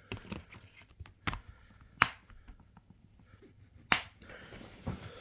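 Handling of a plastic DVD case and disc: a scatter of sharp clicks and taps, the loudest about two seconds in and again near four seconds.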